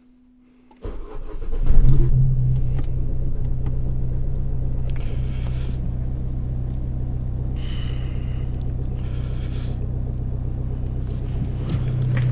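Opel Astra J diesel engine, its particulate filter removed, cold-starting: the starter cranks briefly about a second in, the engine catches with a short loud flare, then settles into a steady idle.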